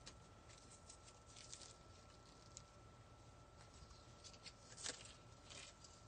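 Faint rustling and light clicks of artificial evergreen picks being handled and clipped, with one louder rustle about five seconds in. A faint steady high tone runs underneath.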